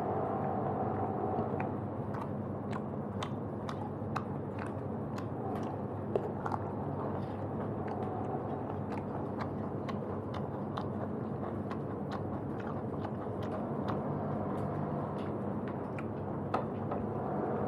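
A person chewing food close to the microphone, with many irregular small wet clicks from the mouth, over a steady low hum.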